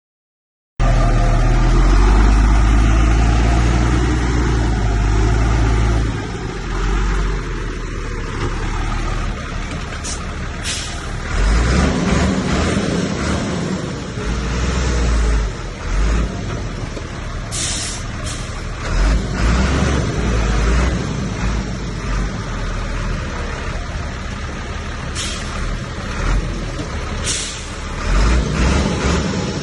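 Heavy diesel earthmoving machinery running under load, a bulldozer and dump trucks working, with a deep engine rumble that is loudest in the first few seconds. Short hisses cut through four times, in the way a truck's air brakes release.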